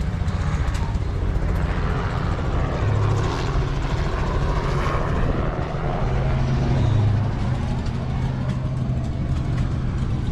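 A piston engine running steadily: a loud, even hum with a constant low note and no change in speed.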